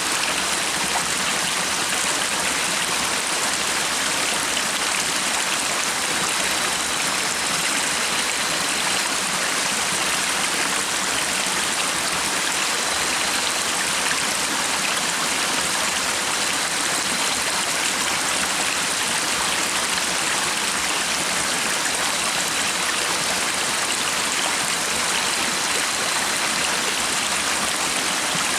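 Water of a stream flowing and splashing steadily, an even rushing with no change in level.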